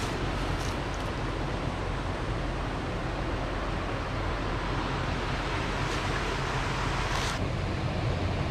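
Steady rushing hiss of a creek waterfall, with a low rumble beneath it. The hiss swells briefly about seven seconds in and then eases slightly.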